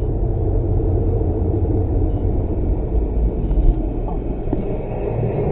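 Steady engine and road rumble of a vehicle being driven, picked up by a dashcam's microphone.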